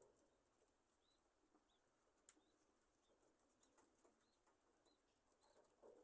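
Faint, short chirps from a flock of budgerigars settling down to roost, coming every half second or so, with a single sharp tick about two seconds in.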